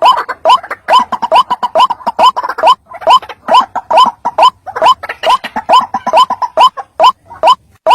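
White-breasted waterhen (ruak-ruak) call played as a bird-trapping lure: a fast, loud run of short rising croaking notes, about three to four a second, repeated without a break.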